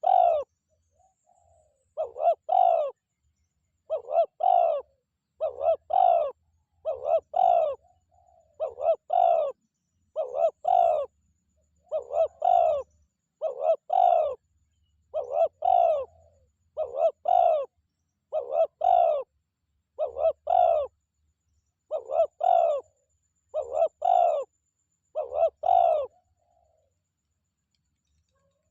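Spotted dove cooing: a short multi-note coo phrase repeated about every one and a half to two seconds, stopping a couple of seconds before the end.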